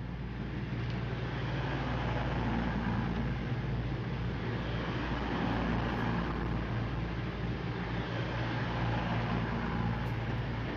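A train running close by: a steady low rumble and hum that builds up over the first couple of seconds, then holds.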